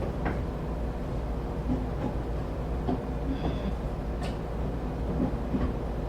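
Inside a local train's passenger car: a steady deep rumble and hum with scattered rattles and clicks. A brief high squeal comes about three and a half seconds in.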